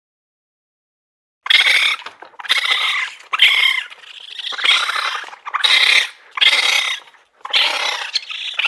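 An animal giving a run of about seven harsh, high calls in quick succession, each under a second long, starting about a second and a half in.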